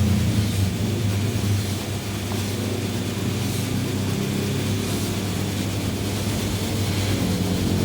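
Motor-driven coconut-milk machine (mesin santan) running steadily: a loud, low, even hum with mechanical noise above it.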